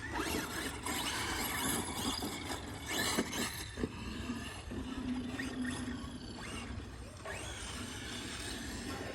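Electric motor of a radio-controlled vehicle whining, its pitch rising and falling with the throttle, over tyre and ground noise, with a steady low hum for a second or so in the middle.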